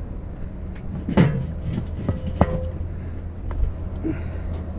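Two metal clunks about a second apart, the second ringing briefly, as scrap parts of a Weber grill are pulled out and handled. A low steady hum runs underneath.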